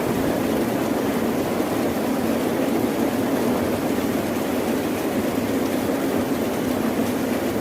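Steady rain with a continuous low rumble underneath, holding an even level without distinct drops or claps.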